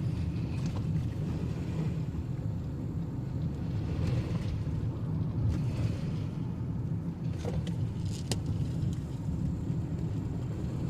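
Car driving along a rough rural road: a steady low rumble of engine and tyres, with a couple of faint short knocks a little past the middle.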